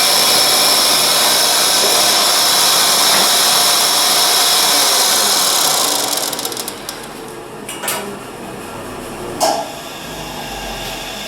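DeWalt DW735 thickness planer, fitted with a Shelix helical carbide cutterhead, running steadily as a board is fed through. About six seconds in the noise drops away, and two sharp knocks follow.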